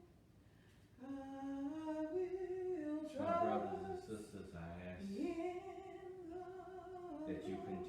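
Unaccompanied singing of a slow hymn melody, long held notes stepping up and down in pitch, with a brief break about a second in.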